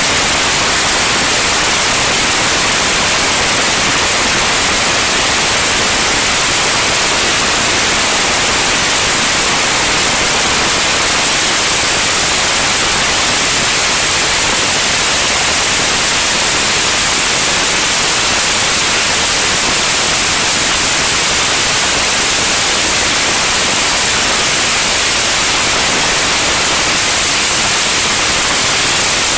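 Loud, steady hiss like static that does not change.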